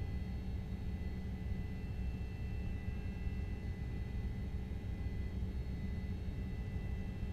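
Steady low drone of a helicopter's engine and rotors, with a faint steady high-pitched whine over it.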